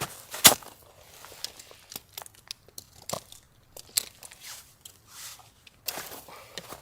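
Irregular crinkling and crunching handling sounds, with one sharp snap about half a second in.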